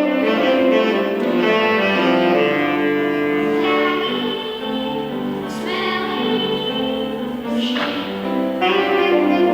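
A choir singing a held, sustained melody with instrumental accompaniment.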